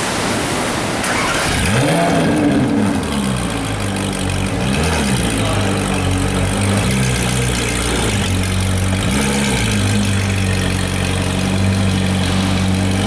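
Ferrari 458 Speciale's V8 through an Fi aftermarket exhaust. The engine note sweeps up sharply about a second and a half in, blips once more a few seconds later, then settles into a steady idle.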